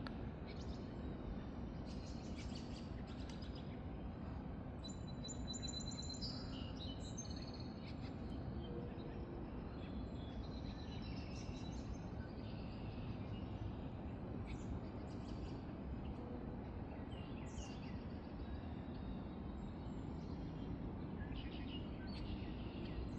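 Small birds chirping and trilling on and off, with a clear trill at about five to seven seconds in, over a steady low background rumble.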